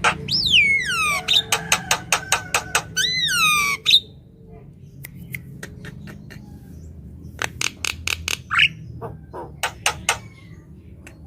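Javan myna singing energetically: rapid harsh clicking notes mixed with whistles that slide down in pitch, a pause of about three seconds near the middle, then more clicks.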